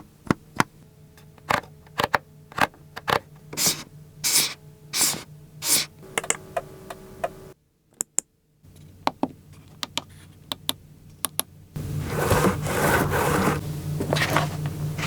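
Ferrari F12tdf cabin controls being worked: a run of sharp switch and button clicks with several longer rubbing, sliding sounds, then a louder steady whirring stretch of about three seconds near the end.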